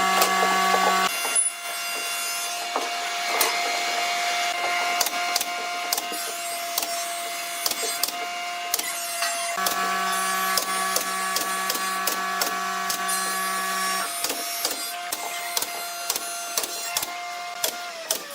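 Small electric power tool motor running at a steady pitch, with many sharp clicks and taps. A second, lower whine joins for a few seconds in the middle. The motor's pitch falls away near the end as it winds down.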